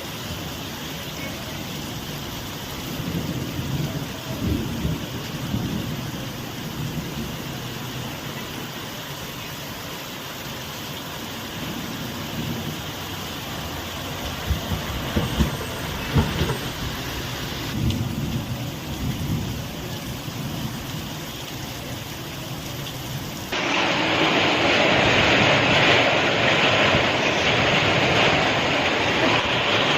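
Rain noise with irregular low rumbles and gusts. About three-quarters of the way through it cuts abruptly to a louder, steady hiss of heavy rain.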